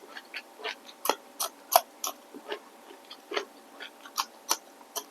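Close-up mouth sounds of someone chewing food: irregular wet clicks and small crunches, about three or four a second.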